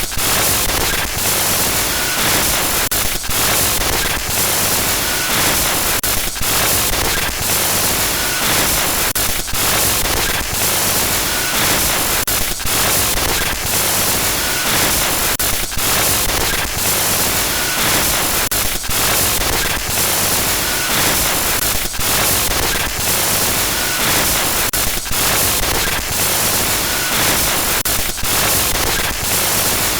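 Synthetic glitch-noise sound effect: a loud, steady static hiss spread across all pitches, briefly dipping about every three seconds.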